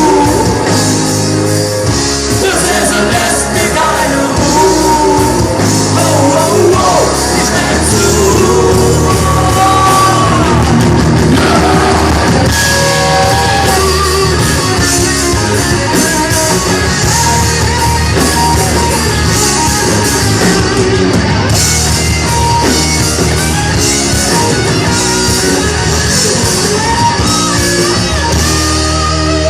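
Live rock band playing with a vocalist singing over loud, continuous guitars, bass and drums.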